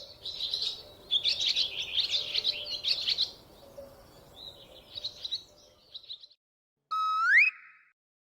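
Small birds chirping and twittering in quick runs, thinning out after about five seconds. About seven seconds in, a short rising whistle-like tone sweeps upward and stops.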